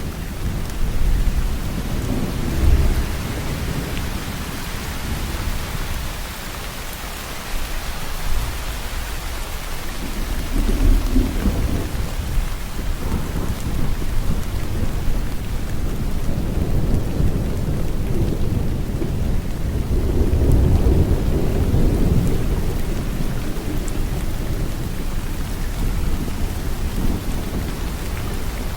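Steady heavy rain hissing, with low rolling thunder rumbling up three times: about two seconds in, around the middle, and about two-thirds of the way through.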